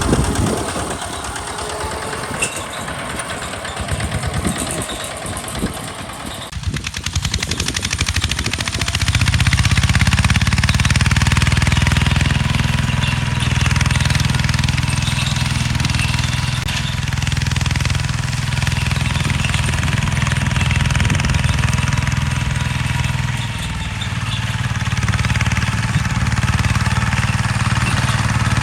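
Hinota HG Gold 155 DI tractor's diesel engine running with uneven knocking for the first several seconds, then from about nine seconds in running louder and steady.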